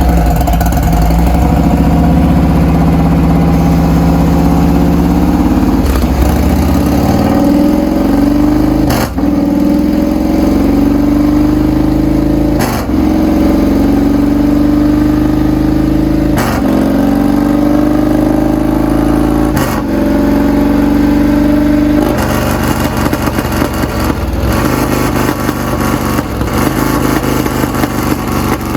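Harley-Davidson CVO 121 V-twin revving hard on a dyno through a D&D Billet Cat 2-into-1 exhaust during a horsepower pull. The pitch climbs in steps and drops back at five short breaks. About 22 s in, the throttle comes off and the engine runs on with a rougher, uneven sound.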